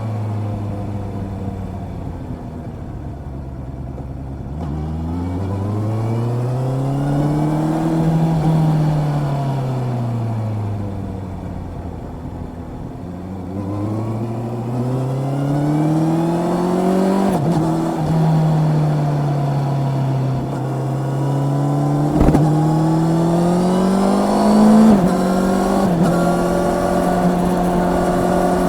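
Honda CB650R inline-four motorcycle engine under way, its revs rising and falling slowly with the throttle. Twice the pitch drops suddenly and then steadies, like quick-shifter upshifts, about two-thirds of the way in and again near the end. A sharp knock comes between the two.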